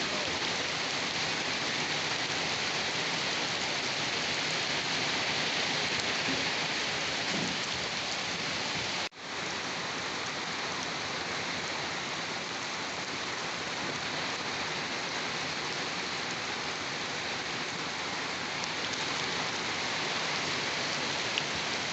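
Steady heavy rain falling, an even continuous hiss of drops on surfaces. It cuts out for a split second about nine seconds in, then resumes at once.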